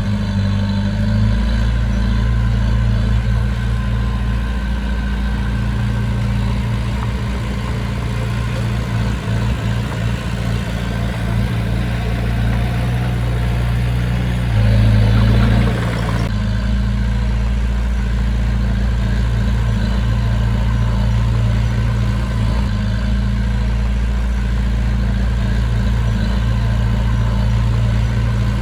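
Heavy diesel engine of a working machine running steadily, with a brief rise in level about fifteen seconds in.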